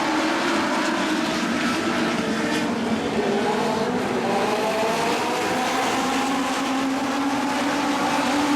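Several Legends race cars running together on track, their motorcycle engines at high revs with overlapping notes that rise and fall in pitch as the cars go round.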